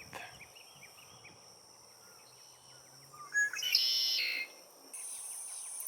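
A red-winged blackbird sings once, about three seconds in: a couple of short lead-in notes and then a buzzy trill lasting about a second. A steady high-pitched insect buzz starts near the end.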